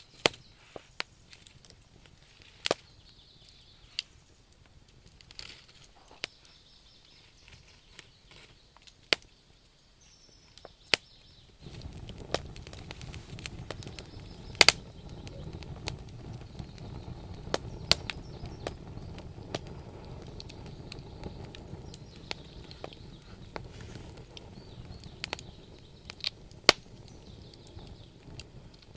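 Wood fire burning, with sharp crackles and pops from the logs at irregular intervals. About twelve seconds in, a steady low rushing rumble comes in suddenly under the crackling and eases off near the end.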